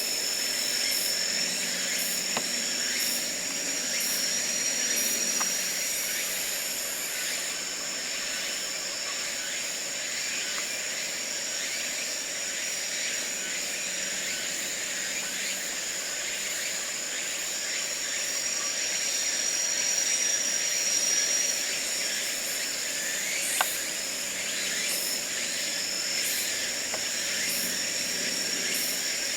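Forest ambience dominated by singing insects: several steady high-pitched trills over a constant hiss, with a separate pulsed chirp about once a second during the first several seconds. A single sharp click sounds near the end.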